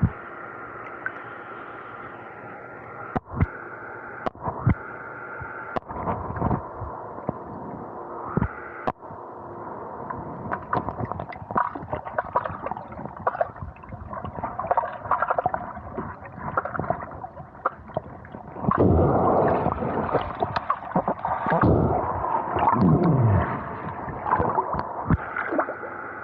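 Muffled gurgling and sloshing of water on a small action camera's microphone in the water: the waterlogged water noise of this waterproof camera. There are a few sharp knocks in the first nine seconds and a louder, churning stretch with falling swoops near the end.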